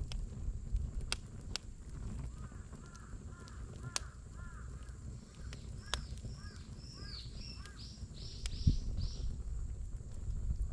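Wood campfire crackling with scattered sharp pops over a low rumble. Birds call in a quick series of short notes from about two seconds in, joined by higher notes around the middle.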